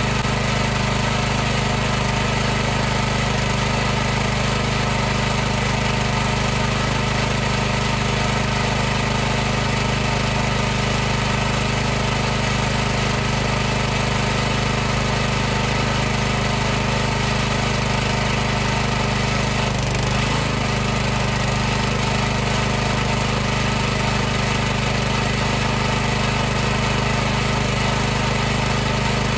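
High-pressure washer running steadily, its motor and pump humming at an unchanging pitch under a continuous hiss.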